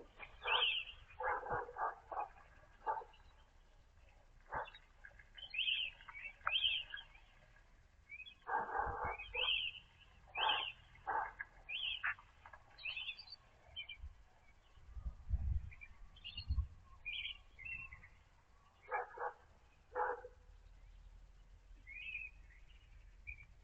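Small birds chirping at a feeder: many short, high chirps repeated throughout, with short, lower, harsher calls mixed in, and a few low thumps about two-thirds of the way through.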